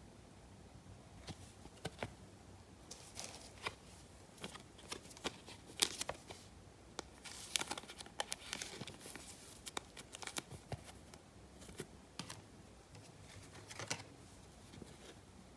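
Trading cards and their packaging being handled close to the microphone: irregular clicks, taps and brief crinkling rustles.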